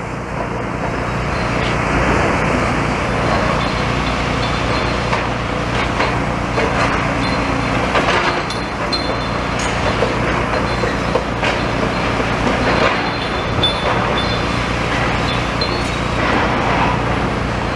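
A demolition excavator running, its hydraulic crusher jaws chomping rubble with irregular crunching and clattering of concrete and metal.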